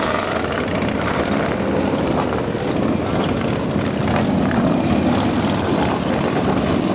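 Several motorcycle engines running at once, a loud, steady mixed engine noise from a line of bikes at the start.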